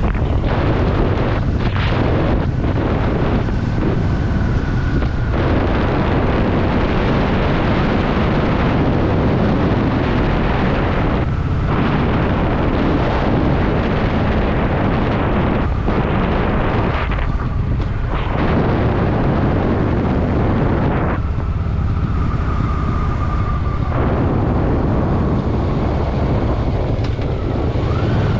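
Heavy wind buffeting on the microphone over the Honda Shadow VT750's V-twin engine running steadily at riding speed. The wind noise eases briefly a few times.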